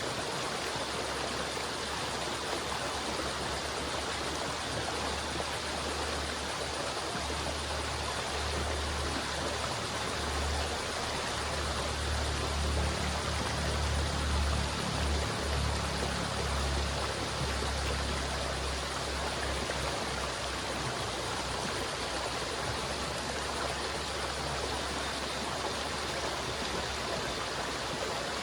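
A river flowing steadily, an even rushing of water, with a low rumble underneath that swells in the middle and then fades back.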